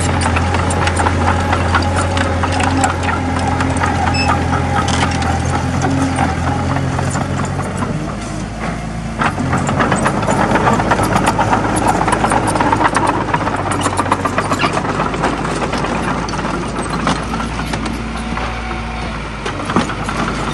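Komatsu D20A crawler bulldozer's diesel engine running, with a dense clatter of clicks and rattles over a steady low engine note. About eight seconds in the engine note dips briefly, then comes back stronger.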